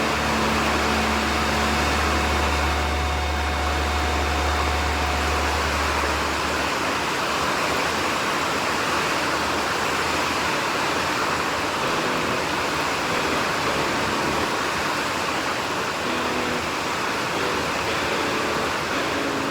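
Heavy rain falling in a steady, even hiss. A low rumble underneath stops abruptly about seven seconds in.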